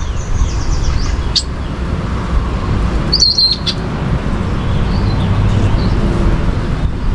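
Small songbird chirping: a few high chirps at the start, a sharp single note about a second and a half in, a brief trill around three seconds in, and fainter chirps after. A steady low rumble runs underneath.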